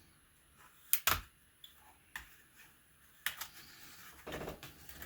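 Sharp clicks and knocks of laptop parts and tools being handled: two close together about a second in, another past three seconds, then a short rough scrape a little after four seconds.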